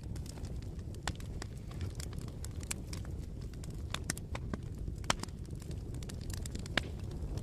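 Bonfire burning: irregular sharp pops and snaps of crackling wood over a steady low rumble of the flames, with a louder pop about five seconds in.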